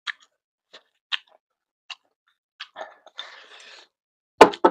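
A person chewing a mouthful of food, with a string of short, sharp, wet clicks, a brief rustle about three seconds in, and one loud knock near the end.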